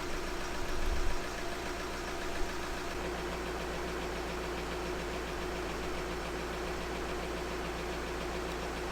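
Volkswagen Transporter T5 van's engine idling steadily, with a brief louder swell about a second in and a short tick a little later.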